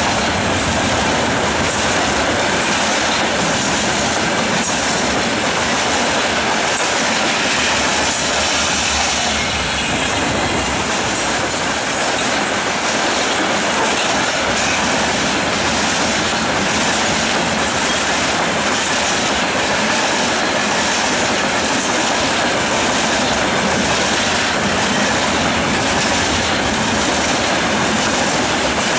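Covered hopper wagons of a freight train rolling past close by: a steady loud rumble of steel wheels on rails, with wheels clicking regularly over the rail joints.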